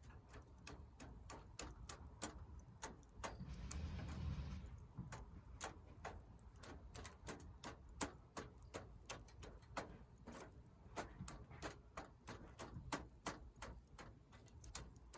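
Wood fire in a fire pit stand crackling, with many irregular sharp pops and snaps. A brief rushing noise comes about three seconds in.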